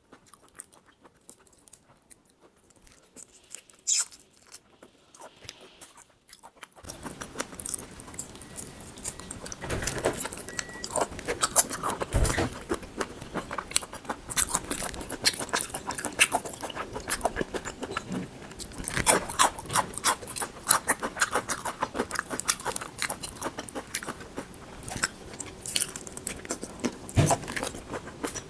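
Close-miked chewing and biting of raw shrimp: a quiet start with a few faint clicks, then, about seven seconds in, dense irregular mouth clicks and smacks that go on to the end.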